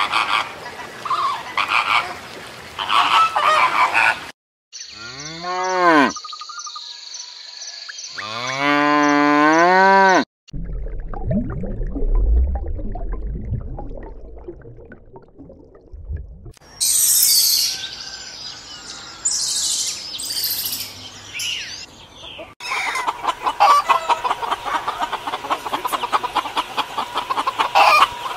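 A string of separate animal sounds cut one after another: a flamingo flock honking at the start, pitched calls gliding up and down, a low rumble, high bright calls, and hens clucking near the end.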